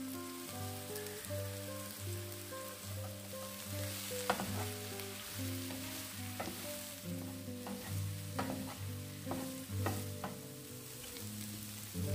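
Sliced mushrooms and onion sizzling in a nonstick frying pan, stirred with a wooden spatula that knocks and scrapes against the pan several times, over background music with a melody and bass.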